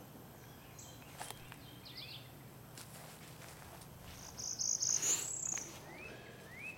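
Birds chirping and calling in short high notes and rising whistles, with a louder high trill about four seconds in, over faint outdoor background.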